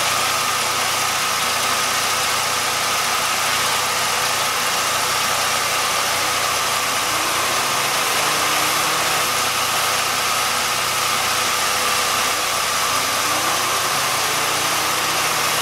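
Jeep Liberty's 3.7-litre V6 idling steadily at operating temperature, heard close up in the engine bay, with a steady hiss over the engine note.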